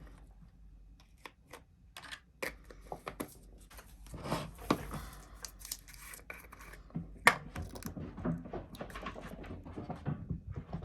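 Small jars of nail acrylic powder being handled: scattered clicks and taps as they knock together and are set down, with a stretch of rustling about four to five seconds in and a sharper click near seven seconds.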